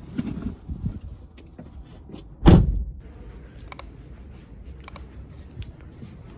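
Quiet room noise with one dull thump about two and a half seconds in, followed by a few light clicks.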